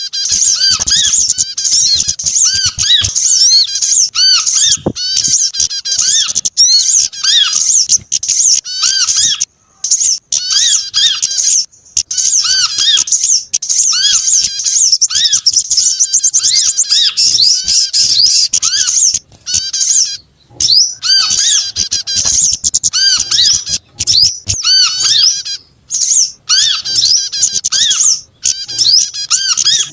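Dense chorus of small songbirds chirping and twittering, many short high calls overlapping in quick succession with only brief breaks: a mixed bird-lure recording of several small species, prinias among them, played to draw small birds in.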